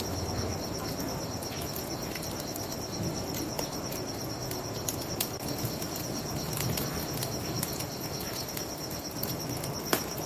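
Crickets chirping in a steady, fast-pulsing trill over the crackle of a wood bonfire, with scattered pops and one sharper pop near the end.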